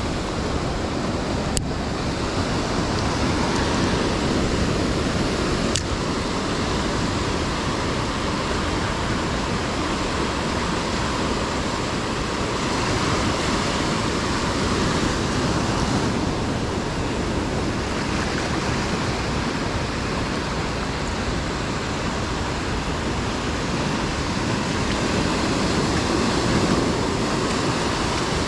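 Ocean surf washing onto a beach: a steady rush of breaking waves that swells and eases, with wind rumbling on the microphone.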